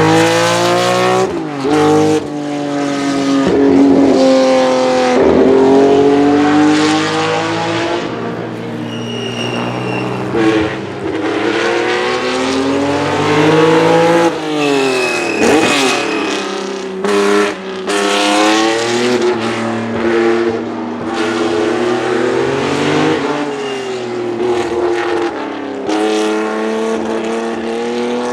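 1967 Porsche 910's 2-litre flat-six racing engine accelerating hard through the gears, its pitch climbing in steps, and passing by several times, the note dropping sharply each time the car goes past.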